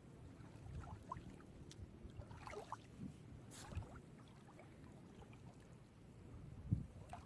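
Small sea waves lapping and washing on a beach, a low, faint, uneven rumble. A few short bird calls come in between about one and three seconds in, with a brief splash just after.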